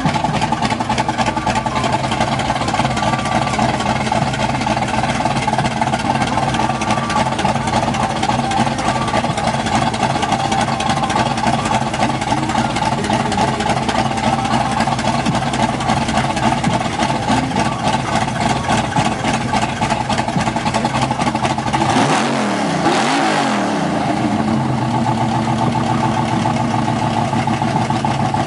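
Chevrolet Monte Carlo SS engine running loud and steady at idle. About 22 seconds in it is revved twice in quick succession, rising and falling in pitch, then settles back to idle.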